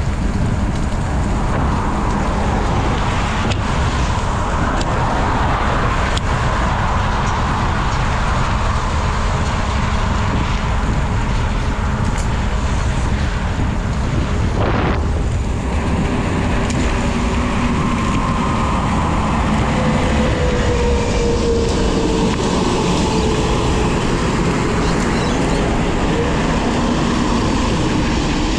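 Wind buffeting the microphone of a moving bicycle, with road traffic. A faint drawn-out whine comes and goes about twenty seconds in.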